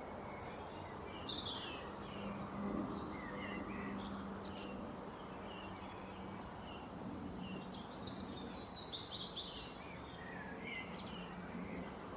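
Several small birds chirping and twittering in short, scattered calls, over a steady hiss and a low hum.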